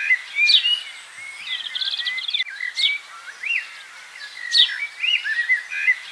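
Bird chirping and whistling in a repeated phrase: a sharp falling whistle, a few wavering whistles and a quick trill, coming round again every couple of seconds.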